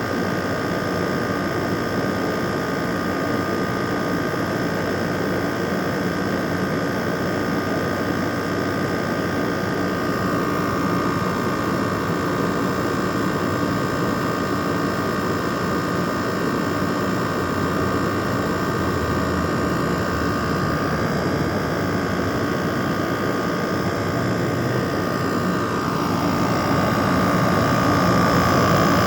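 LG air conditioner running: a steady fan and motor rush with a faint whine in it, growing louder near the end.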